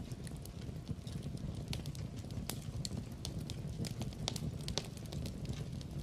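Wood fire crackling in a fireplace: irregular sharp snaps and pops, several a second, over a steady low rumble of the flames.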